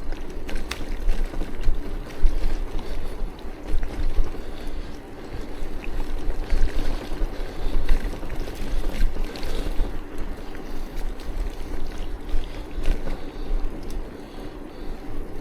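Wind rumbling over the microphone along with tyre and road noise from a bicycle being ridden, unsteady and gusting, with a few faint clicks.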